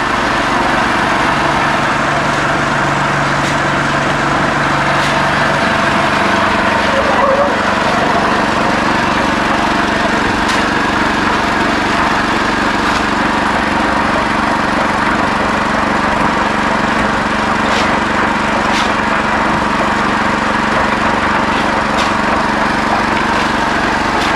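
Small petrol engine of a concrete mixer running steadily under load, with the drum churning the gravel, sand and cement mix and a few sharp knocks along the way.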